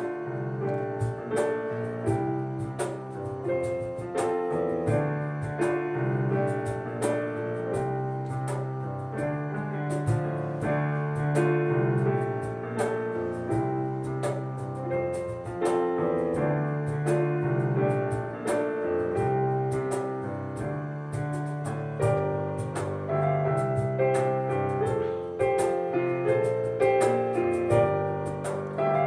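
A piano and a cajon playing an instrumental piece live. The piano carries a busy melody over chords while the cajon keeps a steady beat of sharp slaps.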